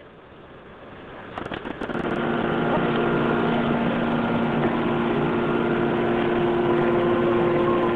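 A motor running steadily, a hum holding a few fixed tones. It swells up over the first two seconds from a quiet start, with a few sharp clicks about a second and a half in.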